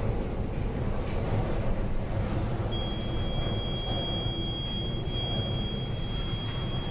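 Steady low rumbling noise of storm wind and heavy sea aboard a bulk carrier in a typhoon. A single steady high-pitched tone joins about three seconds in and holds.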